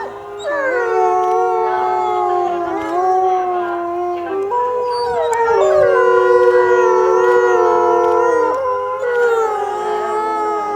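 A pack of wolves howling in chorus: several long howls overlapping at different pitches, some sliding down in pitch, others held steady.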